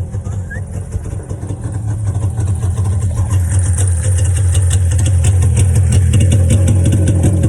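A freshly cold-started recreational-vehicle engine idling low, as it does when cold, growing louder and busier about halfway through as it begins to warm up.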